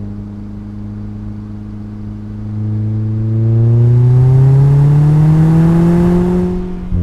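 Mazda MX-5's four-cylinder engine and exhaust under way: a steady drone at light throttle, then about two and a half seconds in it gets louder and the note climbs steadily under acceleration, cutting off sharply near the end as for a gear change.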